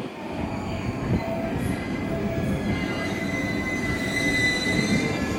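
JR East E235 series Yamanote Line electric train pulling slowly into the platform. Its running noise is joined by a high, steady squeal that builds from about two seconds in and fades near the end.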